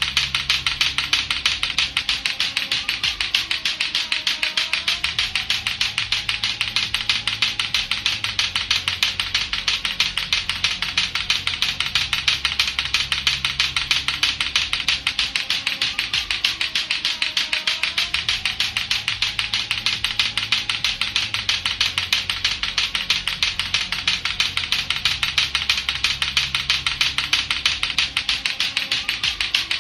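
Lato-lato clacker toy, its two hard plastic balls on a string knocking together in a fast, even run of clacks, over a faint looping background tune.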